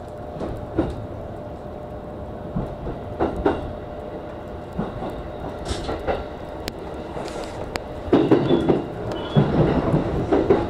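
E233-0 series electric train running on rails, wheels clattering with irregular knocks over the joints and points; the rumble gets louder from about eight seconds in.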